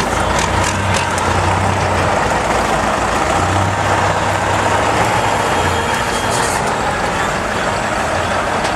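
Heavy truck engine working hard and unevenly, with a deep throb that swells and drops several times before fading about six seconds in, over a constant loud wash of noise.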